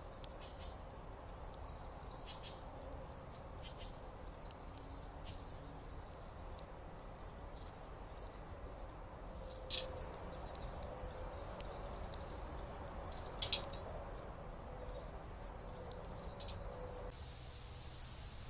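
Small birds chirping in short high calls, with two louder sharp chirps about ten and thirteen seconds in, over a steady low background noise.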